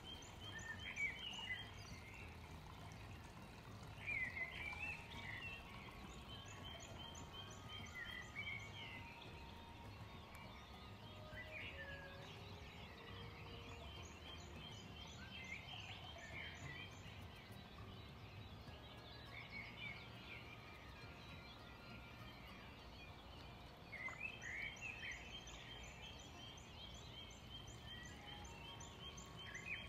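Small birds singing: a short chirping, trilling song phrase comes back every several seconds over a faint, steady low background hum.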